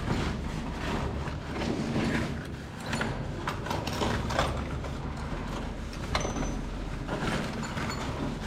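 Scattered knocks and clatter of mechanical handling over a steady low hum.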